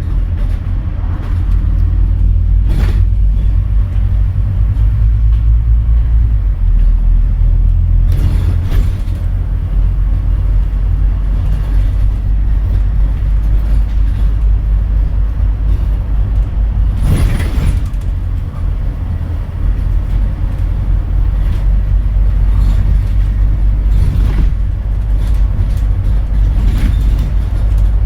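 Scania N230UD double-decker bus's engine pulling hard with a loud, low drone; its pitch steps down about six seconds in and drops again around eighteen seconds, as with gear changes. A few short rattling flares of noise come and go over it.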